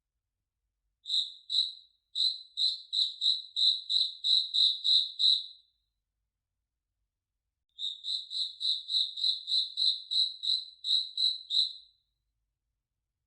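A cricket chirping: evenly spaced, clear high-pitched chirps at about three a second, in two spells of four seconds or so with a pause of about two seconds between them.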